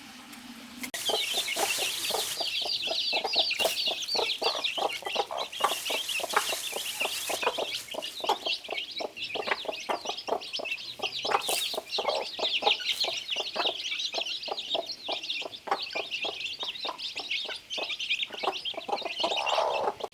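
Chickens clucking busily, with a dense run of high, rapid chirps over the lower clucks. It starts suddenly about a second in.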